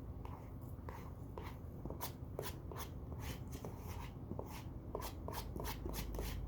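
Crisp crunching and crackling from crunchy food being bitten and chewed at close range, irregular sharp crunches about two to three a second, growing denser after a few seconds.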